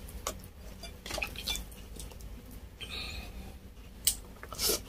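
Close-up eating sounds: chewing and wet lip smacks, with scattered soft clicks and two sharper clicks near the end as pieces of deep-fried beef crispy pata are picked up by hand.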